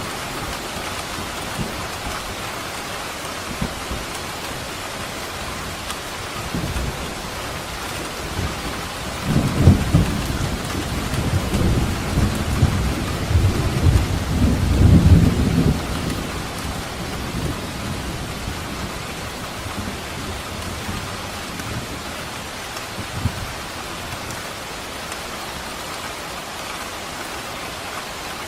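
Steady rain falling, with a low rumble of thunder rolling in about a third of the way through and dying away several seconds later.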